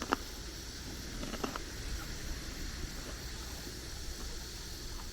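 Outdoor evening ambience: a steady low rumble with a faint, even high insect chirring, broken by a few light clicks near the start and about a second and a half in.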